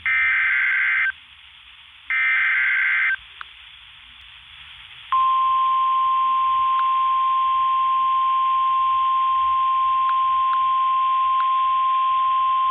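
NOAA Weather Radio emergency alert: two one-second bursts of screechy digital SAME header data, then about five seconds in the steady single-pitch warning alarm tone starts and holds, signalling a tornado warning. Heard through the radio's speaker, with a thin, hissy sound.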